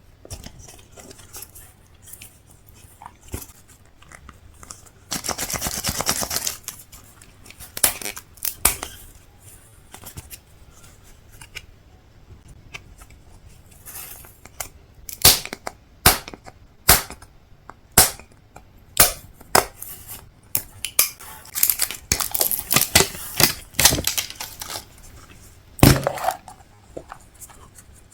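Plastic food packaging being torn open and crinkled. A long rip comes about five seconds in, followed by a run of sharp crackles and snaps.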